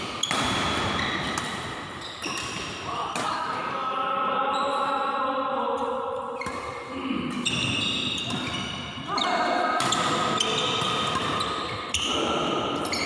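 Badminton rally: repeated sharp racket strikes on the shuttlecock, with players' voices and short high squeaks between them, echoing in a large sports hall.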